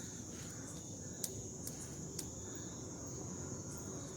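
Crickets trilling in a steady, high, even tone, with a few sharp clicks.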